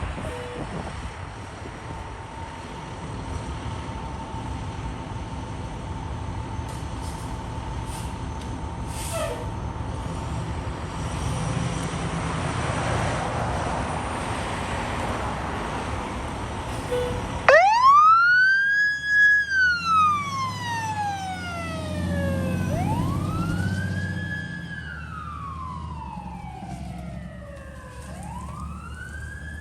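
Fire engine responding: a steady rumble of engine and traffic, then about halfway through its siren starts, wailing up quickly and falling slowly, three long rises and falls.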